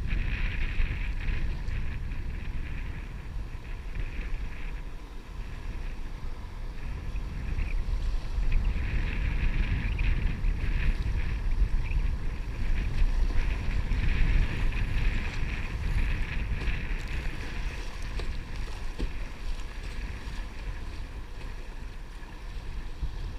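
Wind rumbling on the microphone over a hiss of moving water, swelling louder about a third of the way in and easing toward the end.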